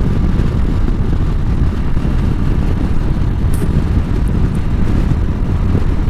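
Harley-Davidson V-twin engine running steadily under way, mixed with wind rushing over the microphone.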